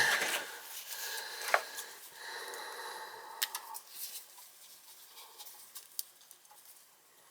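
Hands working at a furnace's thermostat wiring: a knock right at the start, then a few sharp clicks and light rustling of wire and tools, dying away toward the end.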